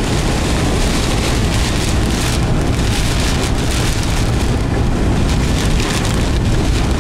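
Steady cabin noise of a moving vehicle: a low road and tyre rumble under an even high hiss.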